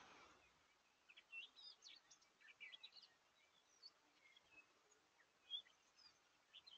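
Faint birdsong: many short chirps and whistles, busiest in the first three seconds, with one louder note about five and a half seconds in, over a steady hiss.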